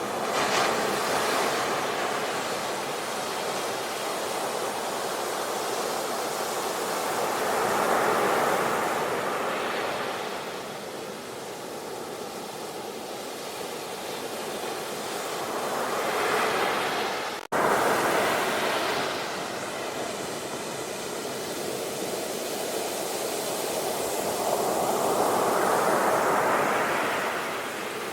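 Ocean waves breaking and washing in, rising and falling in slow surges every several seconds. About two-thirds of the way through there is a split-second break where the recording cuts and restarts.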